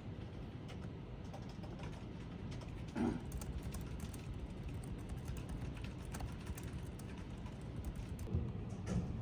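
Light, irregular clicks and taps over a low steady background rumble, with a louder knock about three seconds in and another near the end.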